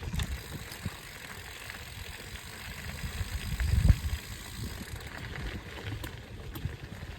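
Mountain bike riding on a trail: tyres rolling and the bike rattling with small clicks over the ground, with low thumps from bumps, the heaviest a little before four seconds in.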